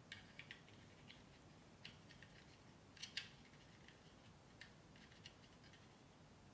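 Near silence broken by faint, irregular small clicks and short light scrapes, a cluster of them about three seconds in.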